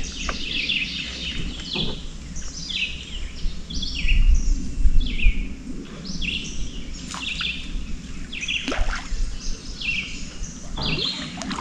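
Songbirds singing in a cypress swamp, one repeating a short, high phrase about once a second over and over, with a low rumble underneath.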